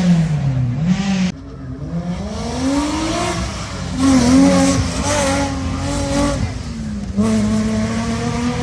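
Rally car engine at full racing revs. The pitch drops early on, climbs again, and swings up and down as it is driven through the gears. The loudness jumps suddenly several times.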